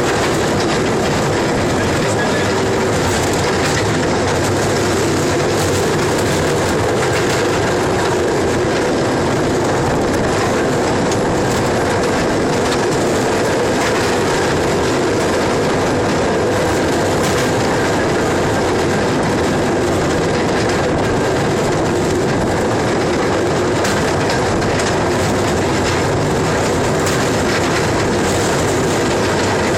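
A train running steadily along the track: a continuous rumble of wheels on rails with some clatter.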